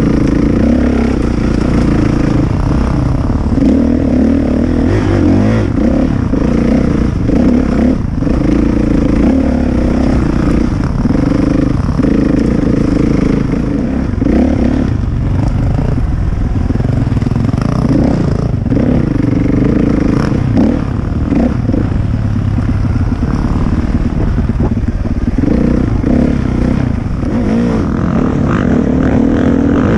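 450cc four-stroke single-cylinder dirt bike engine running hard on a trail ride, its pitch rising and falling with the throttle, with short knocks scattered throughout.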